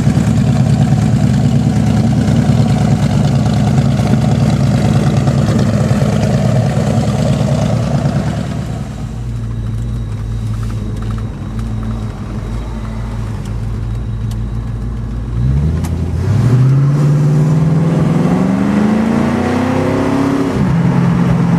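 1969 Ford Mustang Mach 1's 351 V8 with a four-barrel carburettor running. It holds a steady note, settles to a lower, quieter note about nine seconds in, then climbs steadily in pitch under acceleration from about fifteen seconds, and drops back near the end.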